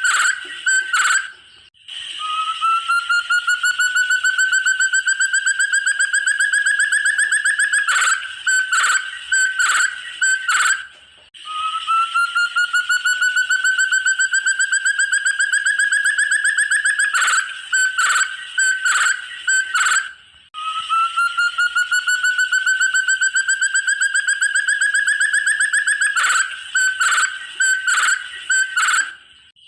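Forest quail (puyuh hutan) call, three times over: a handful of short sharp notes, then a long rapid trill that rises slowly in pitch for about six seconds.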